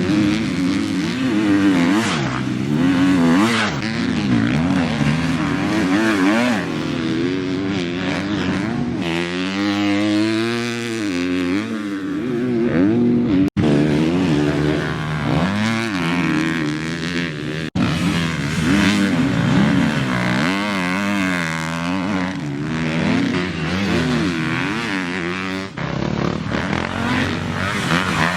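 Motocross bike engine revving hard and easing off again and again as it is ridden around a track, its pitch climbing and dropping with the throttle and gear changes. The sound breaks off for an instant twice, about thirteen and eighteen seconds in.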